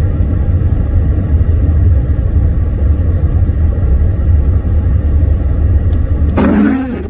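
Steady low rumble of a car driving, the engine and tyre noise heard from inside the cabin, with a brief louder sound near the end.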